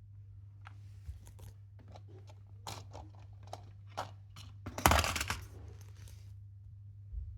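Lego pieces being handled: scattered plastic clicks and rustles, with a louder rustling clatter about five seconds in, over a steady low hum.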